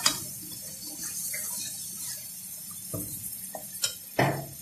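Chicken pieces sizzling in hot oil in a metal kadhai, with a metal spoon knocking and scraping against the pan a few times as it stirs.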